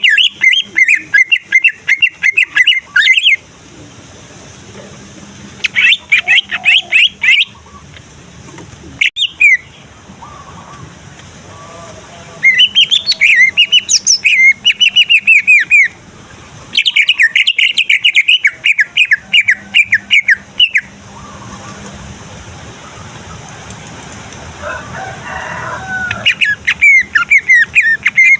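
A male cucak ijo (green leafbird) singing in loud bouts of fast, chattering whistled phrases, about six bouts of one to four seconds each with short pauses between them. This is the excited, full-volume song that keepers use as a lure to provoke rival males into singing.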